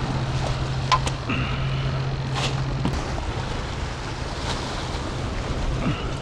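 Steady low drone of a motorboat engine running over wind and surf noise, with a few sharp clicks scattered through.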